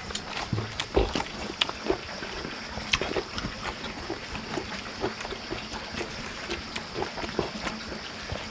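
People eating by hand: chewing and lip-smacking, with many small irregular clicks and smacks.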